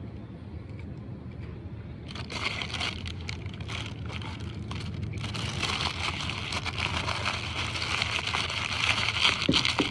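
Paper wrapper of a McDonald's chicken wrap crinkling and rustling close to the microphone while the wrap is handled and bitten into, starting about two seconds in and growing louder toward the end, over a steady low hum.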